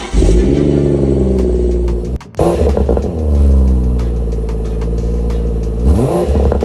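BMW M240i's turbocharged straight-six firing up with a flare of revs that settles to a steady idle, cut off about two seconds in and flaring up again before settling. Near the end it gives one short rev that rises and falls.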